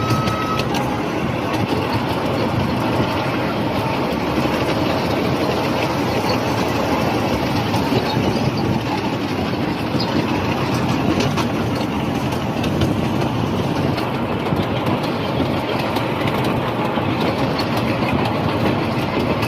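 Open-sided park tourist train running, a steady rumble and rattle of the moving carriage.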